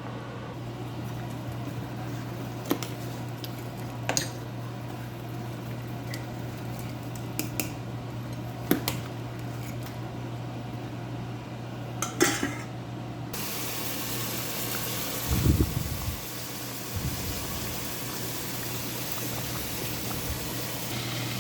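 Chicken kurma curry boiling in a pot, with a metal spoon clinking against the pot several times as it is stirred, over a steady low hum. About two-thirds of the way in the bubbling hiss grows louder, followed by a few dull thumps.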